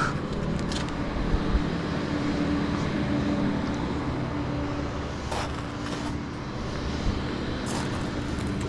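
Flatbed tow truck's engine idling steadily, with a few short clicks and knocks over it.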